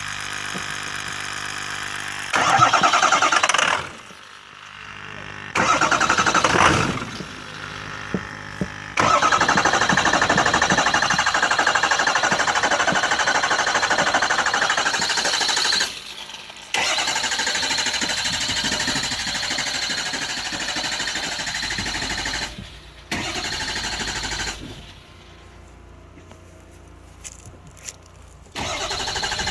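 A 6.0-litre engine cranked on its starter in several long attempts with short pauses between, struggling to fire: a hard start, which the owner puts down to fuel draining back to the tank so that only what is left in the bowl gets burned.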